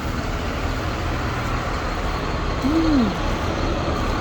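Blue Bird school bus engine idling with a steady low rumble. A short falling hoot-like tone sounds near three seconds in.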